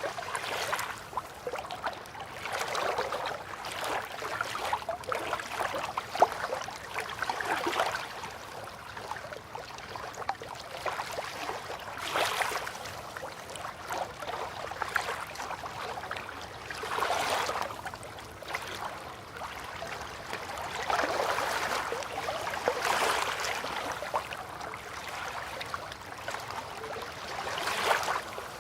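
River water lapping gently, with small waves swelling and washing in every few seconds.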